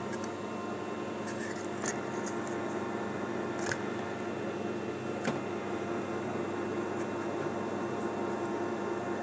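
Emco Maximat lathe running steadily with a bicycle disc brake rotor mounted, a constant mechanical hum with several steady tones. A few light clicks come about two, three and a half, and five seconds in.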